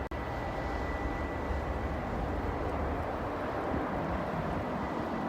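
Steady low outdoor rumble with a faint high whine that fades out a couple of seconds in, and a brief dropout right at the start.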